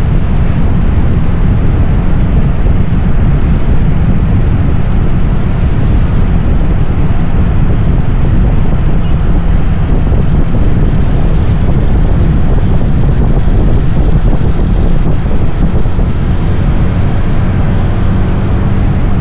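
Heavy wind buffeting on the Insta360 X4 camera's built-in microphone: a loud, steady low rumble with a hiss above it and no clear tones.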